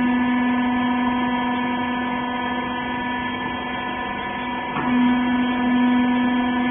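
Hydraulic rag baler's electric motor and pump running with a steady hum. There is a brief hitch about five seconds in, after which it runs slightly louder.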